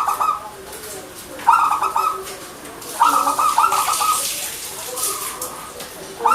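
Zebra dove (perkutut) cooing: three phrases of quick stuttering notes about a second and a half apart, then a pause, with fainter lower coos underneath.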